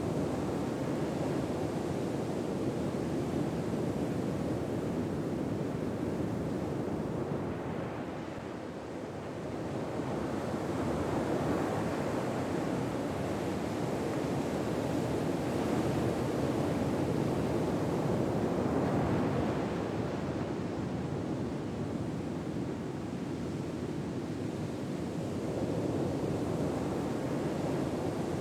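Ocean surf washing on a shore: a steady wash of waves that swells and ebbs slowly every several seconds.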